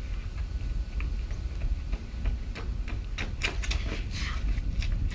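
Quick footsteps of a person running a shuttle run, as a scatter of light taps that come thicker about three seconds in, over a steady low rumble of wind on the microphone.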